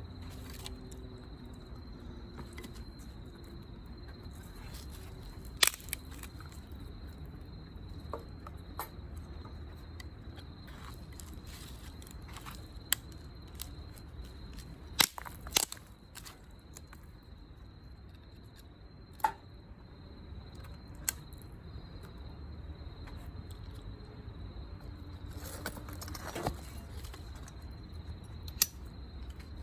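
Scattered sharp snaps and pops of wood, about a dozen at irregular intervals, over a steady high insect trill.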